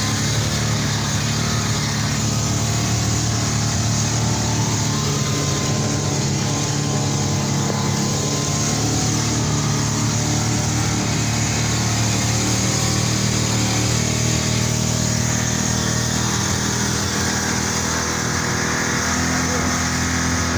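Armoured personnel carrier's engine running at a steady pace while the vehicle is driven, with a constant low hum and a hiss of noise over it.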